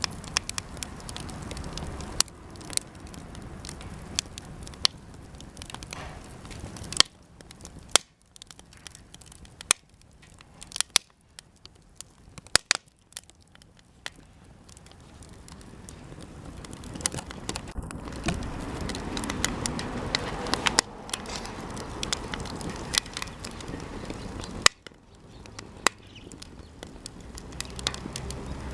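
Cedar offcuts burning in a campfire, crackling with frequent sharp pops as the wood bursts. A low rushing noise swells midway through and then cuts off suddenly.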